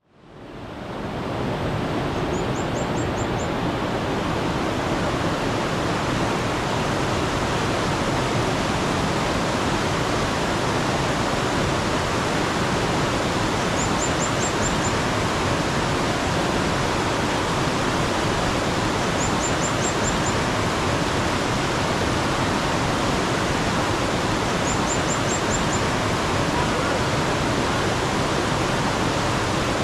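Mountain stream running steadily, fading in over the first second or so. A small bird sings a short run of about five quick high chirps four times, every five seconds or so after a longer gap at first.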